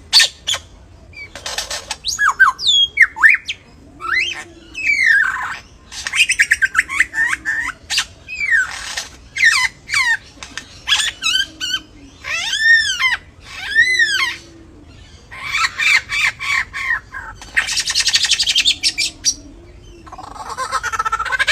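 Several captive birds calling in a mix of loud harsh squawks and sliding, arching whistled notes, with a faint low call repeating every couple of seconds underneath.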